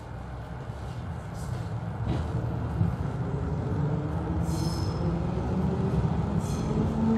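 Berlin S-Bahn class 485 electric train accelerating, heard inside the passenger car: the running rumble grows steadily louder, and a motor whine rises in pitch from about two seconds in.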